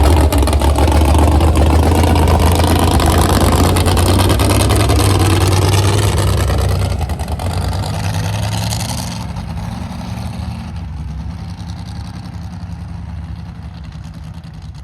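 Mega truck engine running at high revs, loud, with a heavy low drone and a broad hiss over it. The sound drops about seven seconds in, again near nine seconds, and tapers off.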